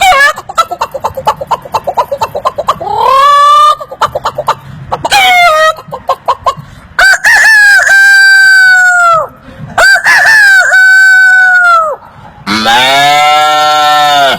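A man imitating chickens with his voice: a run of rapid clucks broken by short rising squawks, then long drawn-out rooster crows. A lower, fuller animal call starts near the end.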